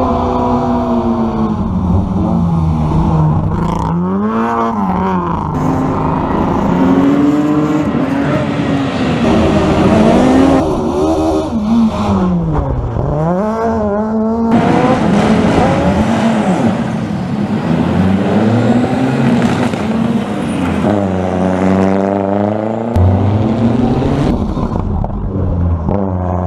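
Rally car engine at high revs. Its pitch climbs and drops again and again as the car accelerates, changes gear and comes off the throttle.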